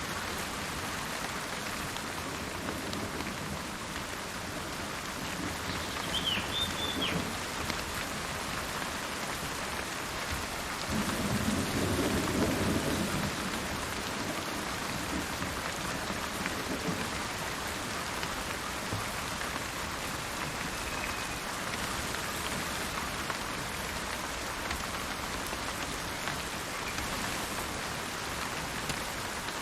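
Steady rain falling, with a low roll of thunder rising and fading about eleven to thirteen seconds in. A bird calls briefly about six seconds in.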